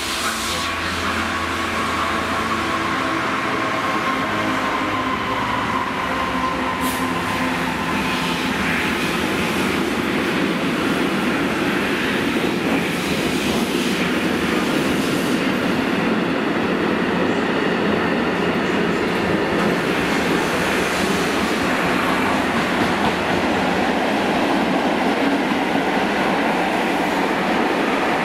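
Diesel-hauled freight train passing. First the locomotive's engine note, with a faint high whine that sinks slightly in pitch, then a long rake of covered steel-coil wagons rolling by with a steady rumble and clatter of wheels on rail.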